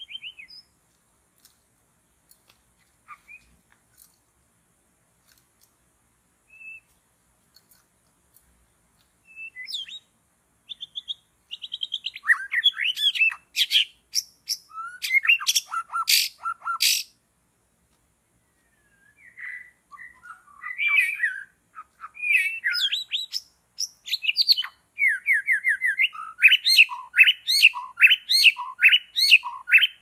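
Songbird calls: after a quiet start, a run of chirps and whistled notes begins about a third of the way in. Loud harsh notes come around the middle, and after a short pause, quick repeated notes run on.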